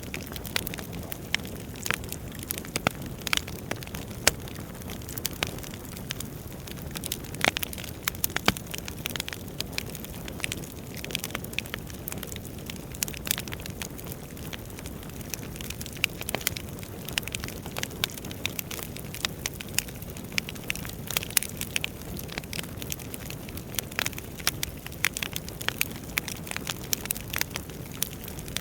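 Wood fire burning in a fireplace, with frequent irregular crackles and pops over a steady low rush of flame.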